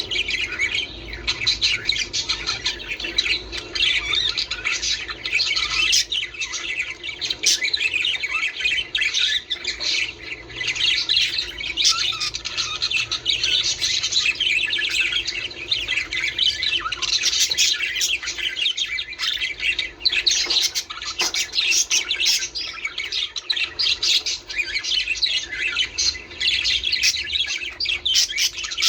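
A flock of budgerigars chattering continuously: many overlapping chirps, warbles and squawks with no pauses.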